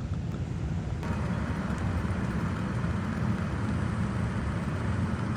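A running air-conditioning system in an attic: a steady low hum with a rush of air that grows louder about a second in, typical of air escaping from leaky ductwork.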